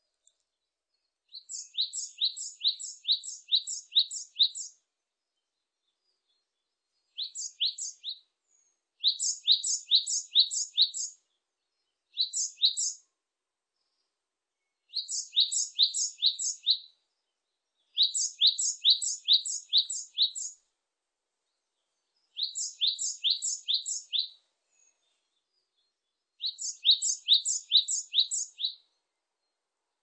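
Japanese tit (Parus minor) singing: short phrases of a high two-note figure repeated quickly several times, the classic 'tsu-pi tsu-pi' song. About eight phrases are separated by pauses of one to two seconds.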